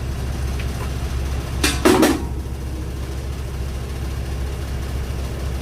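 Agricultural excavator's engine running steadily at low revs, with one loud, short noise lasting about half a second, about two seconds in.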